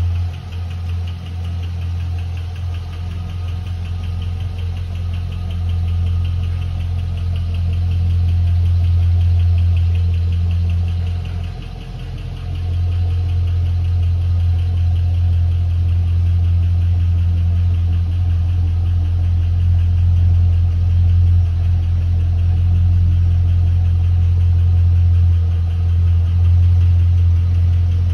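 Holden Commodore SS V8 engine idling steadily, with an even pulsing exhaust note that dips briefly and then grows louder about halfway through.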